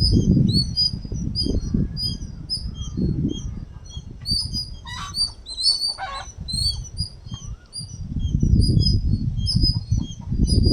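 Small birds chirping in many short, high notes, repeated rapidly, with two louder calls about halfway through, over a low rustling noise that fades in the middle and swells again near the end.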